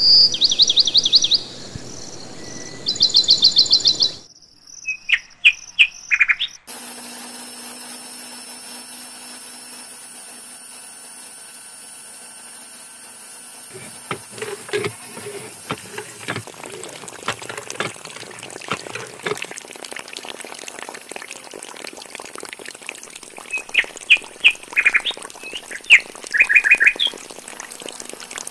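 Small birds chirping in short, rapid trills: several bursts at the start and again near the end. In the middle there is a stretch of light clicks and knocks over a steady background hiss.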